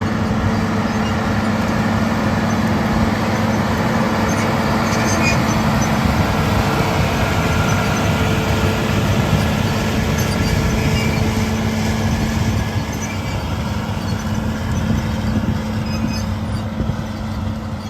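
Allis-Chalmers 7080 tractor's diesel engine running steadily under load while pulling a chisel-type mulch tiller, easing off slightly near the end.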